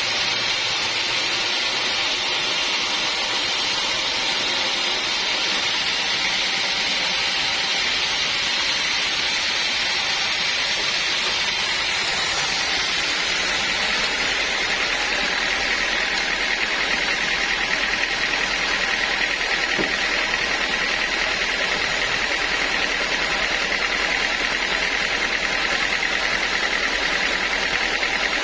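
Homemade band sawmill running steadily, sawing teak, its engine and blade making a continuous loud machine noise. About halfway through, a steadier higher whine and a low hum come up.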